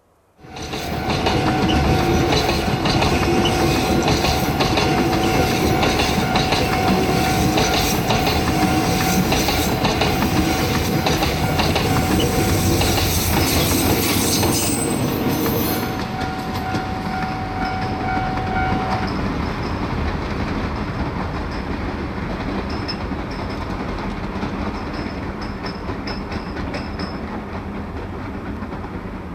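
Train running past on the line, wheels clattering, with a steady high-pitched tone that stops about two-thirds of the way through. It starts abruptly about half a second in, drops in level after about 16 seconds and then slowly fades.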